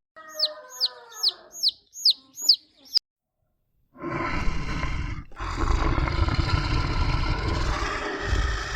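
A bird gives about six high, quickly falling chirps in the first three seconds. After a second of silence, a large animal starts a loud, rough, drawn-out call with a short break in it.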